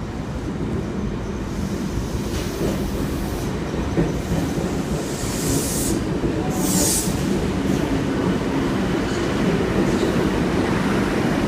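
Sydney Trains C-set electric suburban train pulling into the platform: a steady rumble of wheels on rails, with two short bursts of high hiss about five and seven seconds in.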